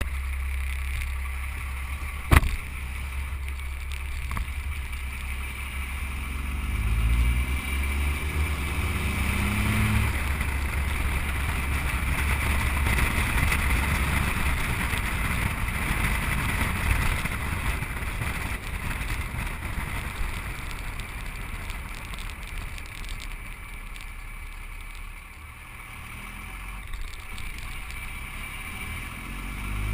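Dodge Cummins turbo-diesel pickup engine running, with a deep low rumble; it revs up twice, rising in pitch about a quarter and a third of the way in, the throttle stabs that make the truck blow black smoke. A single sharp click sounds a couple of seconds in.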